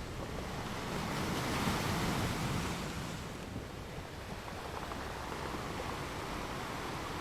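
Sea waves breaking and washing on a shore, a steady rushing noise that swells about a second in and eases off again.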